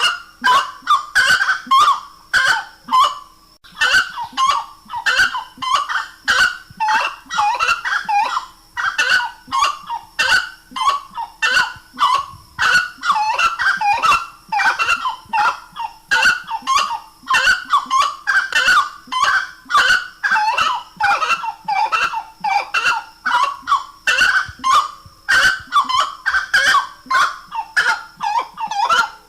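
Grey-cowled wood rail (saracura-três-potes) singing: loud, rapid, rhythmic series of repeated call phrases that run on almost without a break, pausing only briefly a few seconds in.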